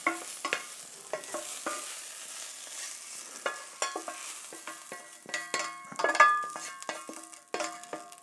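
Stir-fried vegetables sizzling in a hot pan as a utensil scrapes and stirs them out. The sizzle fades, and from about halfway through come many sharp metallic clinks of the utensil against the pan and dish.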